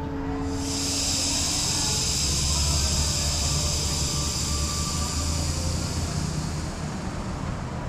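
A steady high-pitched hiss or drone comes in about half a second in and holds, over a continuous low vehicle rumble.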